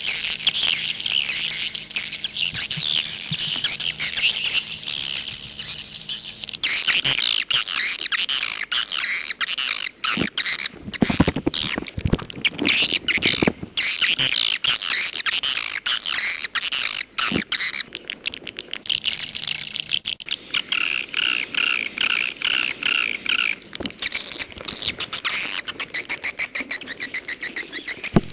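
Swiftlets (walet) twittering: a dense, unbroken chatter of rapid high chirps and clicks that changes character abruptly a few times, typical of the 'jaguar' swiftlet call tracks played to draw swiftlets into a nesting house.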